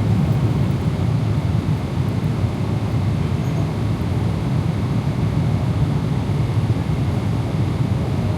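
Steady cabin noise of a Boeing 777-300ER in cruise, heard from the economy cabin: an even, low rumble of airflow and engines that does not change.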